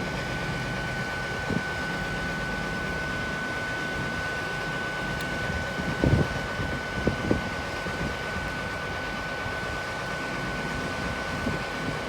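Steady mechanical hum with a constant high-pitched whine, broken by a few soft knocks about a second and a half, six and seven seconds in.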